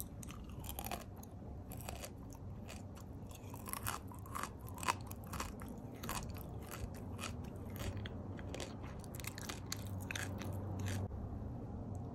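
Close-miked chewing of a mouthful of candy pieces: a rapid, uneven run of crisp crunches that thins out and stops about a second before the end.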